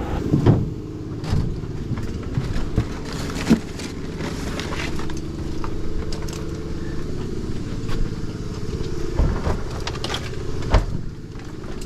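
Small gas engine of a roofing air compressor running steadily, with scattered knocks and clicks from work on the roof.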